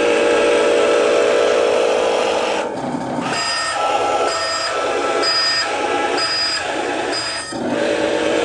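RC truck's electronic sound module playing a steady engine hum. About three seconds in it switches to a reversing beep, which sounds about five times at an even pace before the engine hum comes back near the end.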